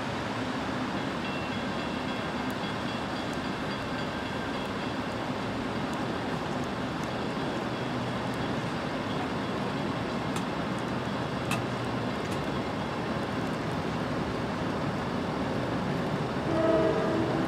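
Steady noise of an approaching train over wet road traffic, then a train horn sounds near the end.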